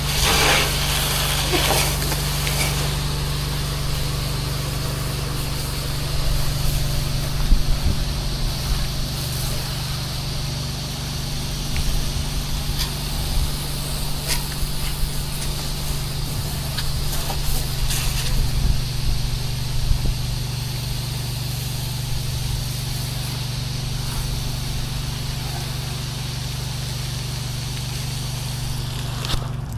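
Pressure-washing rig's engine running steadily, with the hiss of water spraying over it.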